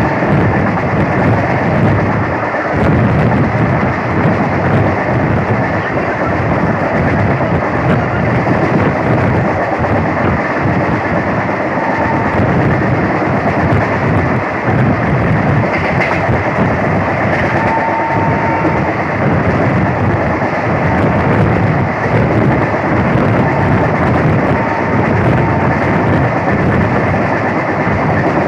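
Mayurakshi Fast Passenger train running at speed: a loud, steady rumble and rattle of the moving coach, with faint short tones now and then.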